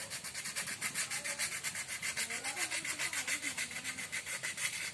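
Sandpaper rubbed over a motorcycle frame part in quick, even back-and-forth strokes, about six a second, smoothing the surface for paint.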